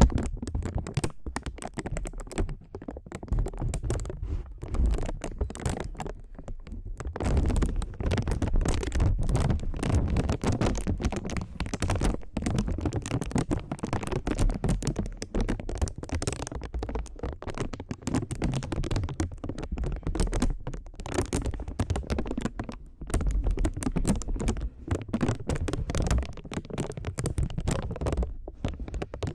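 Rapid, close-up ASMR tapping and scratching right at the microphone, a dense run of small clicks and scrapes with soft low thumps.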